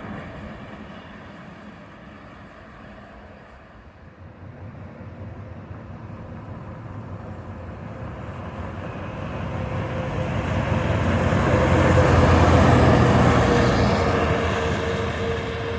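A large truck approaching and driving past, its engine and tyre noise building to a peak about twelve seconds in and then fading, with a tone that drops slightly in pitch as it goes by. The tail of an earlier passing vehicle fades out over the first few seconds.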